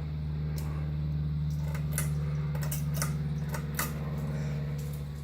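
Emerson ceiling fan motor humming steadily, a little louder through the middle, with several sharp clicks scattered through.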